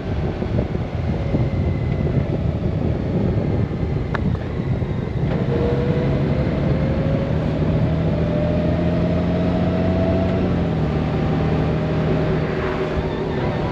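Honda Gold Wing flat-six engine running under way, with wind noise on the microphone. From about five seconds in, the engine note rises slowly for several seconds, then drops slightly in pitch about eleven seconds in.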